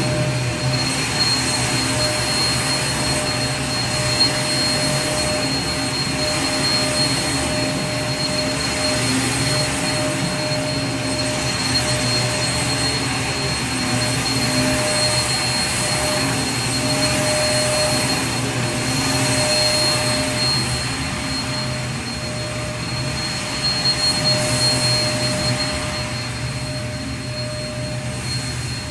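Vacuum cleaner running steadily: an even rush of air with a low motor hum and a thin high whine, both held at one pitch.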